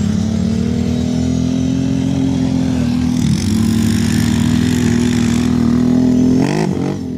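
Quad (ATV) engine running at steady high revs, its pitch dipping briefly about three seconds in and again near the end.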